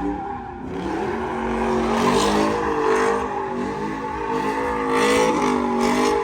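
Vehicle engine revving hard, its pitch rising and falling again and again, with tires squealing in surges.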